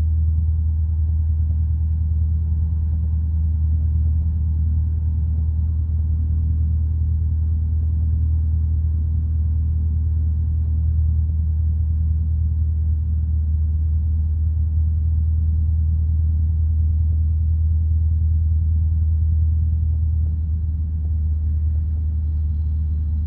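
Light single-engine piston aircraft's engine running steadily on the ground at low power, a constant low drone with no change in pitch.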